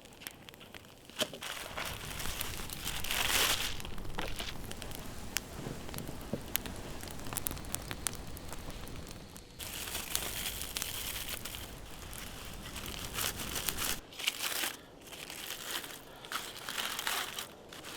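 Snow crunching and crackling in irregular bursts, the crisp compressing of snow underfoot or under hand, with scattered sharp clicks and a low rumble that stops near the end.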